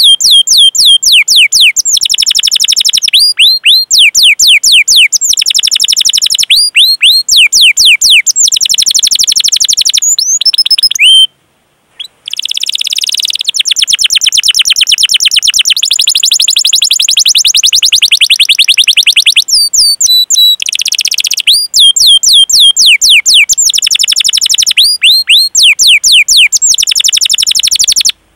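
Domestic canary singing a long, fast song of rapid rolling trills and rapidly repeated sweeping chirp notes ('cuit cuit'), the phrases changing every second or two. It breaks off for about a second near the middle, then carries on.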